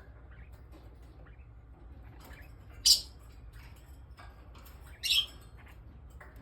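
Pet cockatiel squawking twice, two short loud high calls about two seconds apart, with faint light tapping and scratching between them.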